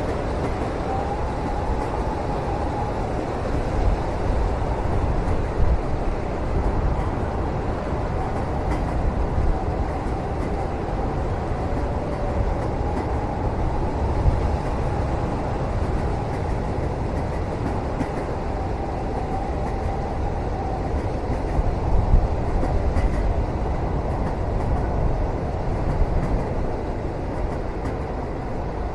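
Steady low rumble of a passenger train running on the rails, heard from inside a carriage, with a faint wavering high tone over it and a few soft knocks.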